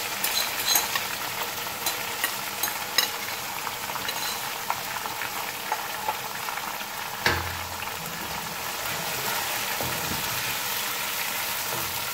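Marinated chicken pieces sizzling in hot oil and browned onions in a wok as they are stirred with a wooden spoon. There is sharp crackling and spitting in the first three seconds, and a dull knock about seven seconds in.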